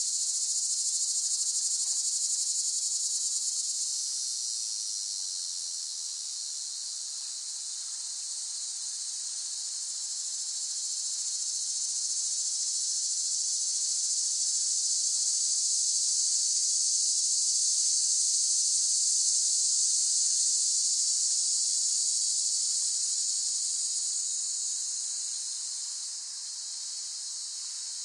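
Cicadas in chorus, a continuous high-pitched buzzing drone that slowly swells louder and fades back over several seconds.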